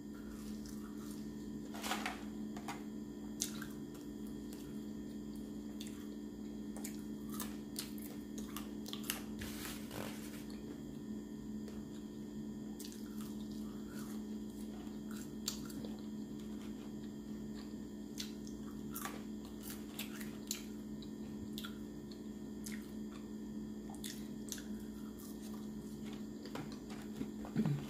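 Close-up mouth sounds of a person eating french fries: chewing with scattered small clicks and wet smacks, over a steady low hum.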